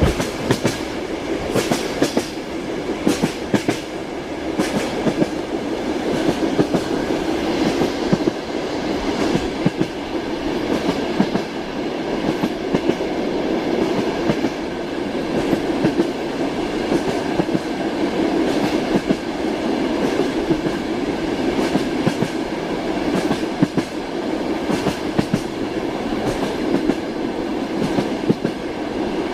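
Passenger train's wheels heard from inside a sleeping-car compartment while moving: a steady rumble with the clickety-clack of knocks over the rail joints, the knocks thickest in the first few seconds.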